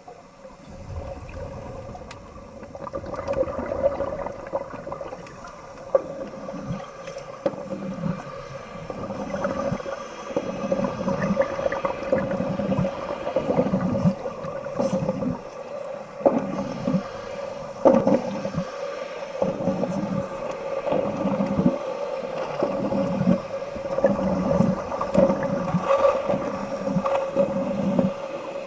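Underwater bubbling and gurgling in repeated low pulses, about one to two a second, over a steady hum.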